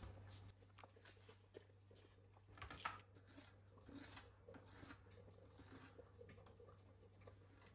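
Near silence with faint scattered clicks and soft rustles of something being handled, over a low steady hum.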